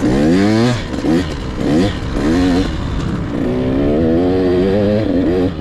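Husqvarna TC 85 two-stroke dirt bike engine under throttle, pitch climbing in several short pulls with quick drops between as it shifts, then holding a higher, wavering note for about two seconds before easing off near the end.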